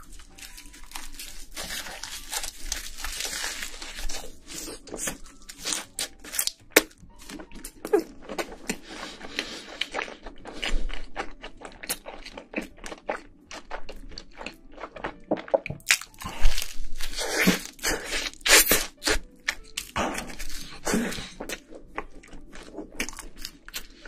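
Close-miked eating: a person biting and chewing crunchy food, many short crisp crunches and chewing noises coming irregularly.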